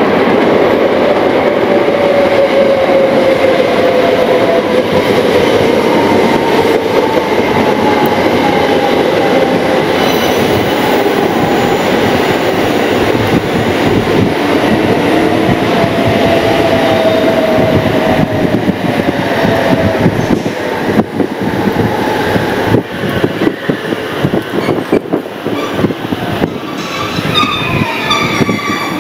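JR West 683 series limited express electric train pulling into a station and slowing: a rumbling run with an electric whine that falls steadily in pitch as it brakes. Wheel clicks come in later, and the wheels squeal near the end as it comes to a stop.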